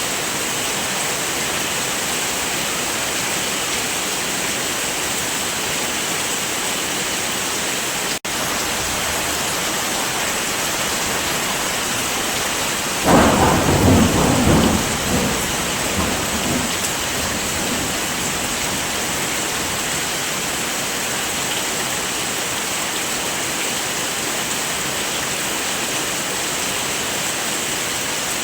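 Steady heavy rain with a rumble of thunder about thirteen seconds in that peaks and rolls away over three or four seconds. The rain cuts out for a split second about eight seconds in.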